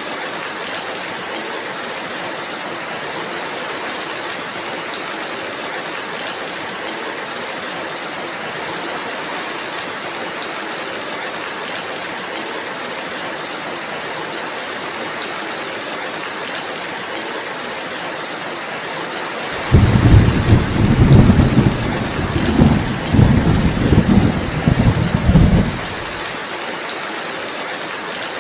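Steady rainfall hissing evenly, with a roll of thunder that breaks in suddenly about two-thirds of the way through, swells several times over about six seconds and then cuts off.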